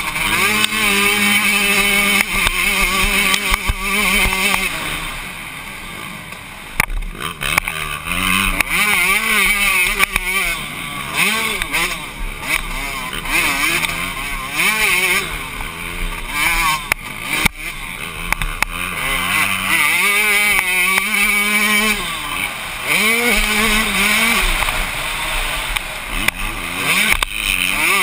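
Yamaha YZ125 two-stroke motocross engine heard on board, revving up and down constantly as the throttle is worked through corners and over jumps. It drops quieter for a couple of seconds about five seconds in, off the throttle, then picks back up.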